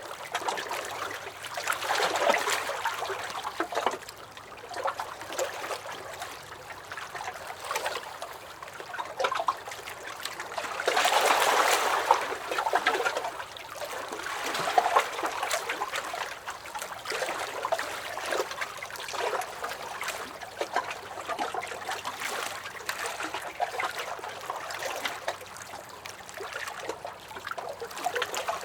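Small lake waves lapping and sloshing against a dock in irregular, overlapping splashes, with a louder surge about eleven seconds in.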